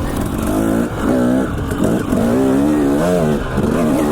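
Dirt bike engine revving up and down while riding, the pitch rising and falling every second or so.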